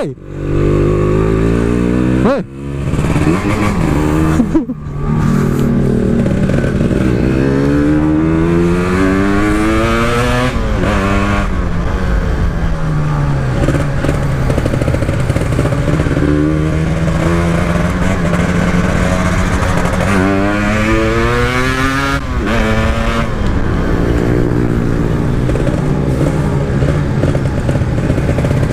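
Two-stroke motorcycle engine, a Kawasaki Ninja engine in an RX-King-style bike, accelerating hard through the gears. The revs climb and fall again and again, with quick drops at the gear changes in the first few seconds and long rising sweeps after that.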